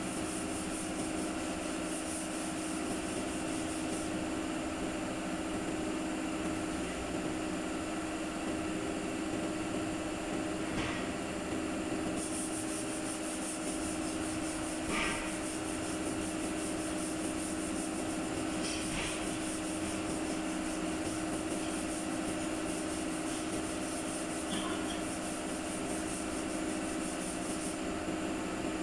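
A steady mechanical hum with a high hiss above it that comes and goes, and four brief knocks spread through it.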